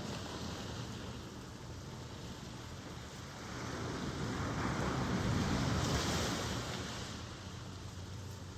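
Ocean surf washing steadily, with one wave swelling up past the middle and then ebbing away.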